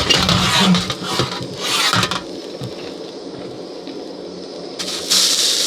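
A metal utensil scrapes and clatters against a pan while a steak sizzles in it. About five seconds in, the sizzling suddenly gets louder and stays steady.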